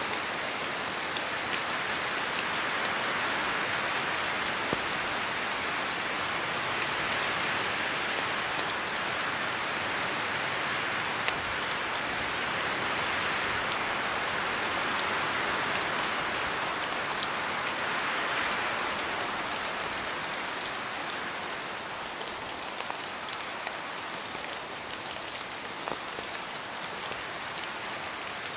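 Steady rain falling, a continuous patter of many small drops.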